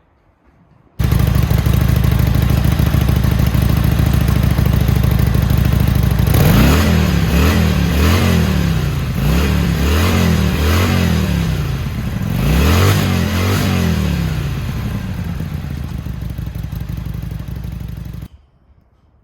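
Harley-Davidson Sportster XL883L's air-cooled V-twin running through its new aftermarket mufflers. It idles steadily, is blipped about six times in quick pairs, settles back to idle, then cuts off suddenly near the end.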